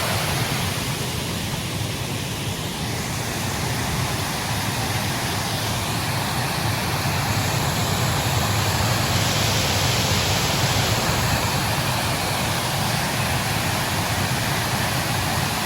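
Snowstorm wind blowing against the microphone: a steady rushing noise, heaviest in the low end, that eases slightly a couple of seconds in and then swells again.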